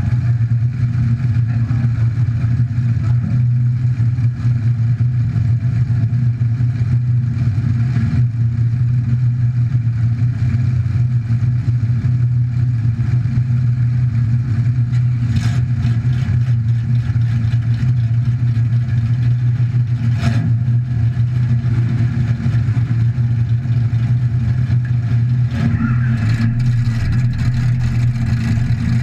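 Demolition derby car's engine idling steadily, heard from inside the stripped-out cab. A sharp click cuts in twice, about halfway through and again a few seconds later.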